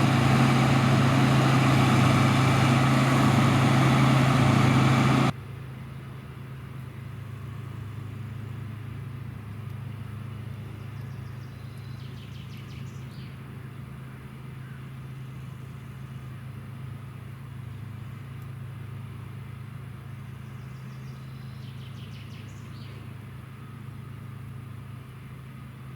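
Harvest machinery engine running steadily: a loud close drone with a strong low hum for about five seconds, then a sudden drop to a quieter, more distant steady drone of the same machine sound. Faint short chirps come twice in the quieter part.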